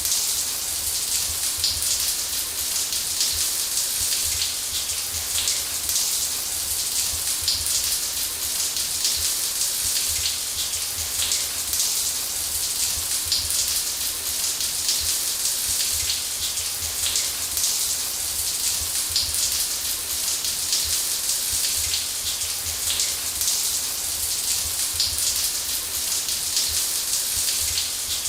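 Running shower: water spraying and pattering steadily onto a hard surface as a continuous hiss.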